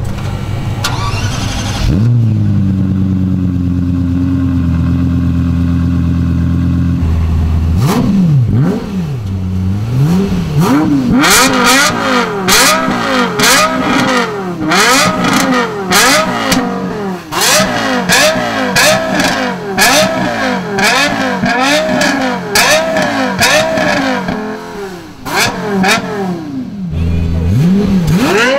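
Lexus LFA's V10 engine: the revs flare about two seconds in and settle to a steady fast idle. From about eight seconds on, the engine is blipped again and again, each rev shooting up high and dropping back quickly in a rapid string of sharp revs.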